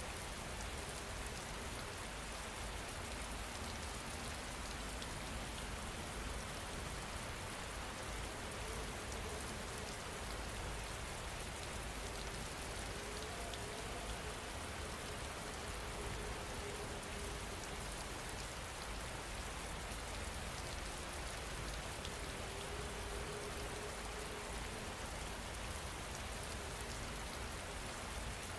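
Steady rain falling, an even continuous hiss with no pauses.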